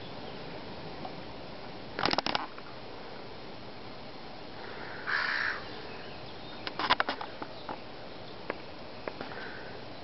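Seagulls and other birds calling: a short, rapid chattering run about two seconds in and again near seven seconds, a single harsh call a little after five seconds, and a few sharp single clicks after that, over steady background noise.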